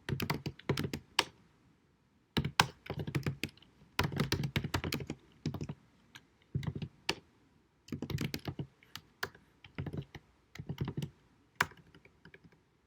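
Typing on a computer keyboard: quick runs of key clicks in short bursts with brief pauses between, stopping about a second before the end.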